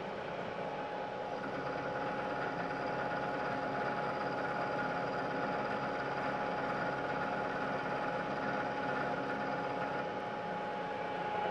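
Milling machine running steadily while its end mill takes a light pass of about five thousandths of an inch across the face of a steel part. It sounds as a steady whine over a continuous hiss.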